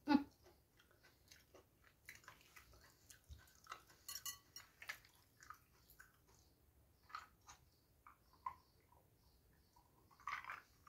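Close-up sounds of a person chewing food eaten by hand: a louder bite at the start, then many small crunches and mouth clicks. Near the end the person drinks from a glass.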